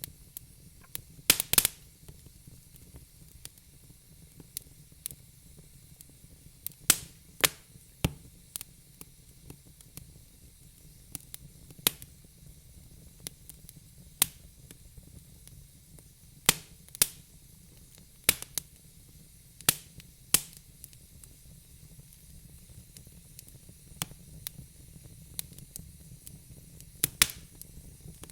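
Wood fire crackling in a fireplace: irregular sharp pops and snaps, a few of them loud, over a faint steady hiss.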